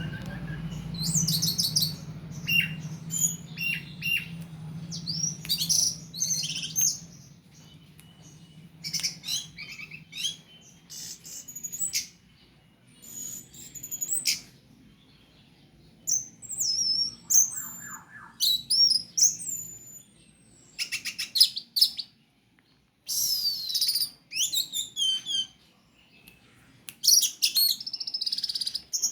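Orange-headed thrush singing vigorously, in bursts of varied high whistled phrases with pitch glides and fast trills, separated by short pauses. A low steady hum runs underneath for about the first two-thirds.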